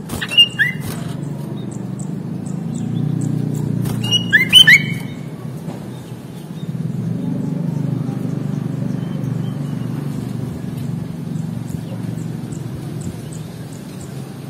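Sooty-headed bulbul giving two short bursts of whistled calls, one right at the start and another about four seconds in, over a low background rumble.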